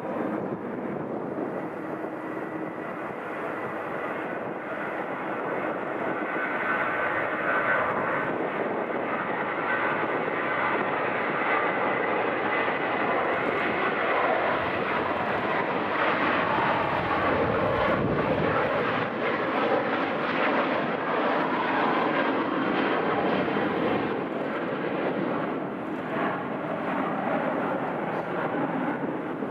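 Jet airliner engines running as the aircraft moves past. The roar swells over the first several seconds, holds, then eases a little near the end, with a thin whine above it in the first half.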